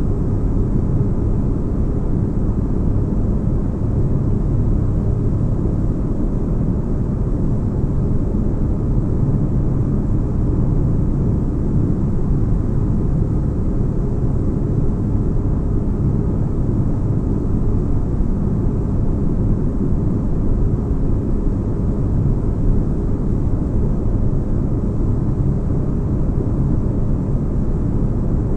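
Steady, unchanging deep-bass rumble with a faint hum: a white-noise spaceship-interior ambience, like engine drone heard inside a large craft.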